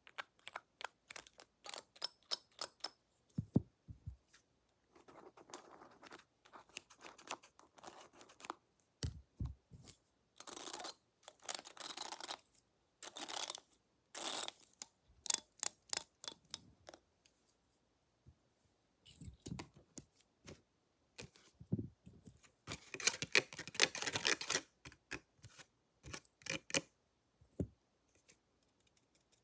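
Close-miked ASMR handling sounds of pretend barber tools: many quick clicks and taps, with several longer rustling, brushing passes lasting one to two seconds each.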